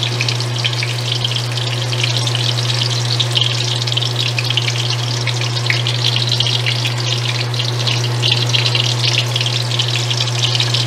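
Carrot chunks sizzling and crackling in hot oil in an aluminium wok, frying toward medium brown. A steady low hum runs underneath.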